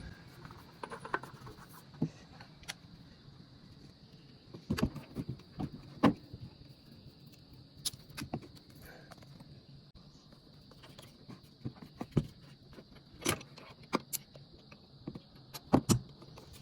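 Irregular metallic clinks and knocks of hand tools working on the oil filter housing of a Ford Everest 2.2L diesel engine as the filter is taken off.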